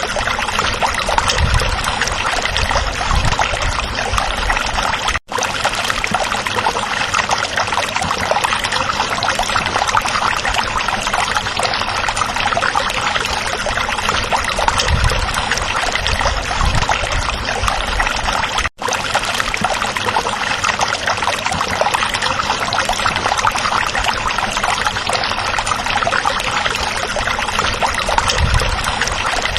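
A small stream running over rocks, a steady mix of rushing and trickling water. The sound cuts out for an instant twice, about five and nineteen seconds in.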